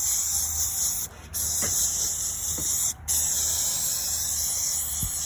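Aerosol can of heavy-duty oven cleaner spraying onto engine parts in three long hissing bursts, each broken by a brief release of the nozzle, about a second in and about three seconds in.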